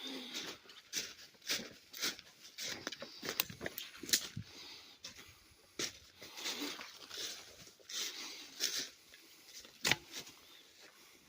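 Footsteps crunching and rustling through brush on a woodland climb, irregular steps about one to two a second, with a few sharper cracks such as one about ten seconds in.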